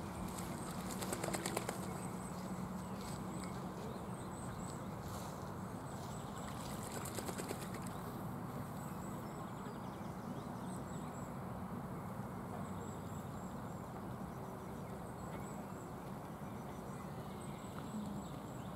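Outdoor ambience: a steady background rush with faint, high-pitched bird chirps scattered throughout. Short rapid fluttering sounds come about a second in and again around seven seconds.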